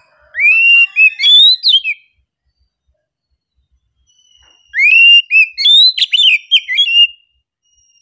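Oriental magpie-robin (kacer) singing: two phrases of clear whistled notes that slide up and down, the second starting after a pause of nearly three seconds.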